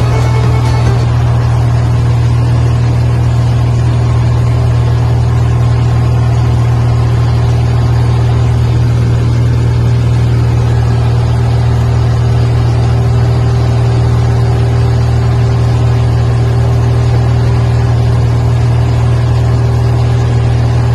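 A motor running steadily with a loud, unchanging low drone.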